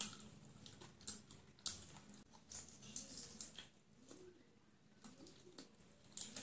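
Close-up chewing and crunching of crispy fried chicken eaten with the fingers, with wet mouth clicks and lip smacks. Several sharp crackles are spread through it, the loudest about a second and a half in and just before the end.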